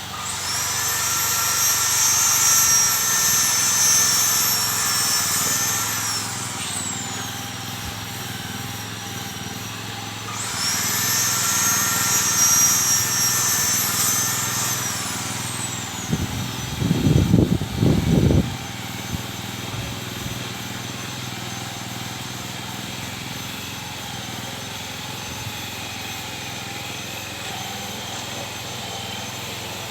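A high-pitched mechanical whine, like a small motor, sounds twice for about five seconds each and falls away in pitch as it stops. A short burst of low rumbling comes about seventeen seconds in.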